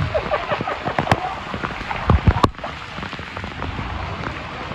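Rain falling and splashing, with scattered drops and one sharper crack about two and a half seconds in.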